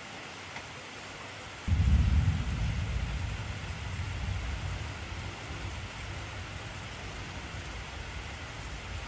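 Heavy rain falling steadily, with a sudden low thunder clap not quite two seconds in that rumbles on and slowly fades.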